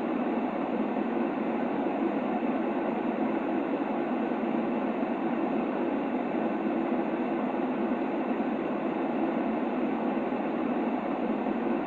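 Steady white noise for soothing a baby, shaped to a soft, low hiss with the highs cut off; it holds unchanged without any breaks or events.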